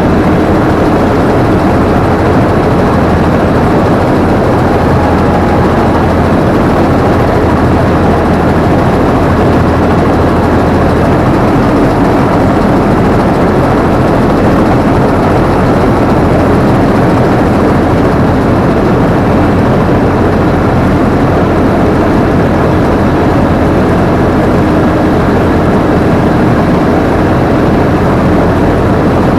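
Combine harvester running steadily and loudly, its engine and machinery heard from the operator's seat.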